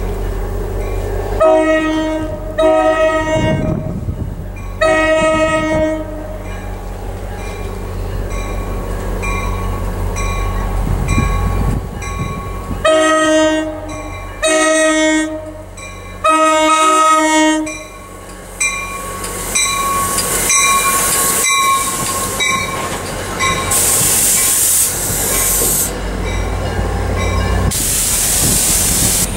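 NJ Transit commuter train's horn sounding two sets of three blasts as it approaches, the last blast in each set the longest. The train then rolls in with a steady high wheel squeal and a loud rushing noise near the end as the cars pass.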